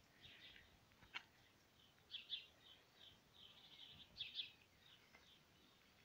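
Faint songbird chirping: short high phrases that come back about every two seconds, with one sharp click about a second in.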